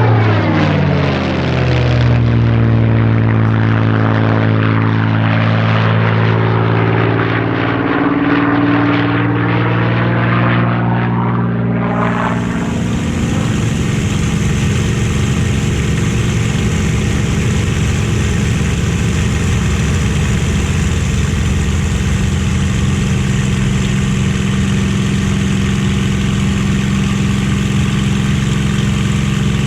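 A Merlin V12 piston-engined warbird passing low, its propeller and engine note falling in pitch as it goes by. About twelve seconds in, the sound cuts abruptly to a steady, unchanging engine drone.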